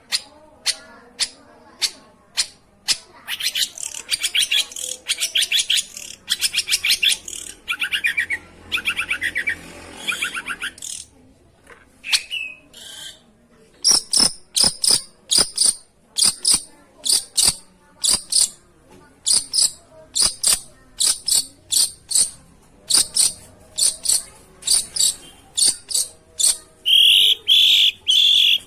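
Long-tailed shrike (pentet) calling in a lure recording: rapid harsh rattling trills from about 3 to 10 seconds in, then a long run of short, sharp, high chips repeated roughly once or twice a second.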